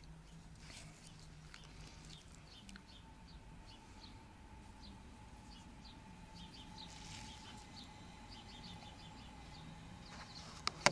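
Faint outdoor ambience with small birds chirping in short, repeated series, and a sharp click near the end.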